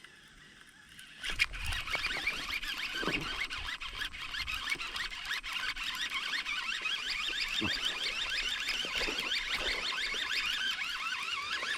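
Spinning fishing reel cranked fast, a steady warbling whir of the reel's gears and rotor that starts suddenly about a second in, while a hooked bass is reeled in.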